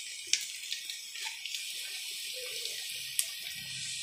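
Sliced onions frying in hot oil in an open pressure cooker, a steady sizzle, with a few light clicks of a spoon as ginger-garlic paste is added.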